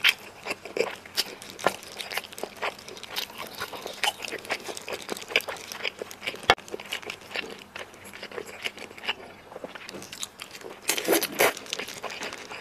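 Close-miked eating of cola-braised chicken drumstick: chewing with many small, sticky mouth clicks, and gloved fingers handling the sauced meat. A denser burst of crackling comes near the end as meat is pulled off the bone.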